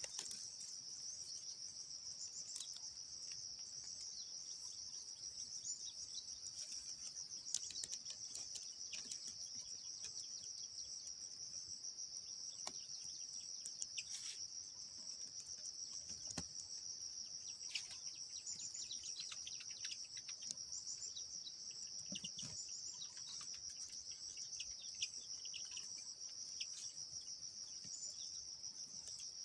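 Insects trilling steadily in a continuous high-pitched drone, with short scattered bird chirps over it, more frequent in the second half.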